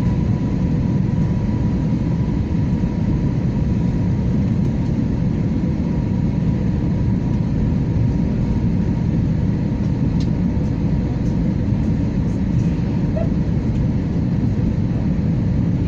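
Steady, deep roar of engines and rushing air inside the passenger cabin of an Airbus A321 in flight, with a faint steady whine above it.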